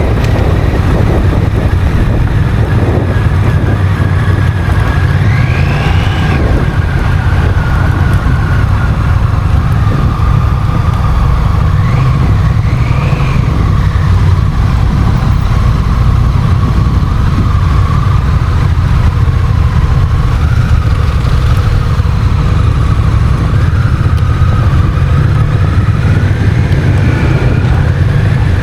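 Honda CMX1100 Rebel's parallel-twin engine running steadily while the bike is ridden, under a heavy low rumble of wind on the microphone. The engine note wanders only a little, with a few short rises in pitch.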